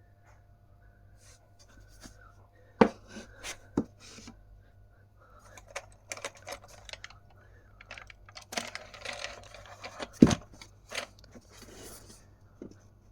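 Knocks, clicks and light clatter of flat-pack chipboard cabinet parts being handled, such as shelves and shelf support pegs, with sharp knocks about 3 s and 10 s in and a busier patch of rattling and rustling just before the second.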